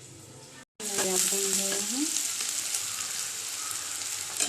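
Onions frying in hot oil in a pan: a steady sizzle that starts loudly about a second in, after a brief cut in the sound, as they crisp up.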